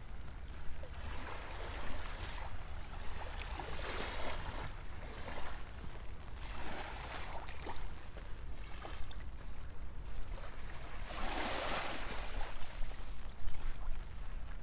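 Small waves washing in and drawing back, a swell of hiss every couple of seconds, the biggest near the end, over a low rumble of wind on the microphone.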